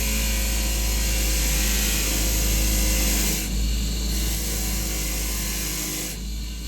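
A steady spraying hiss over a low machine hum; the hiss changes about three and a half seconds in and again near the end.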